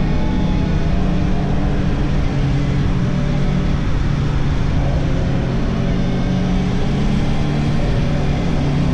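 Yamaha R1 inline-four motorcycle engine running at fairly steady revs while cruising, heard from the rider's position.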